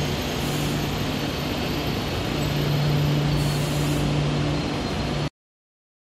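KTX high-speed train moving slowly along the platform. Its rolling and running noise carries a steady low hum. The sound cuts off suddenly about five seconds in.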